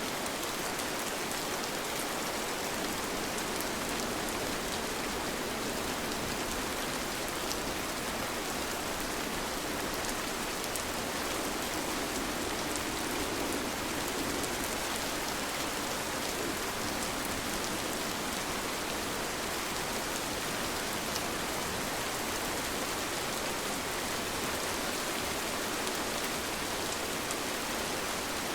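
Steady rain falling: an even hiss with fine scattered drop ticks.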